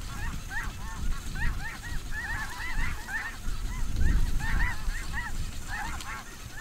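A large flock of snow geese calling at once: a dense chorus of short, high, rising-and-falling honks overlapping without pause. Under it runs an uneven low rumble that swells about four seconds in.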